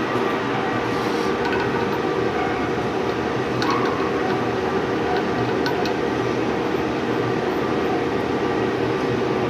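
CNC lathe running steadily in a machine shop: a constant machine hum with several steady tones, and a few short sharp metallic ticks about four and six seconds in.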